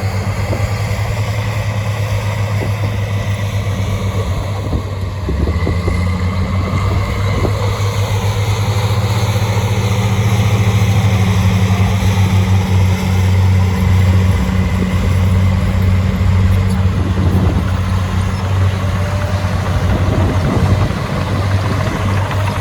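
Heavy diesel engine of earthmoving machinery running steadily with a deep drone, its note shifting slightly about five seconds in and again near the end.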